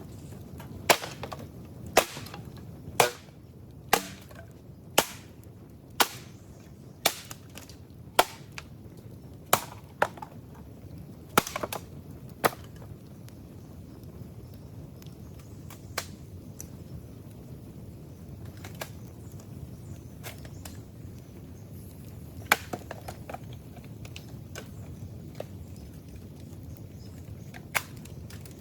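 Dry old bamboo being broken up with repeated blows: sharp cracks about once a second for roughly the first twelve seconds, then only a few scattered cracks.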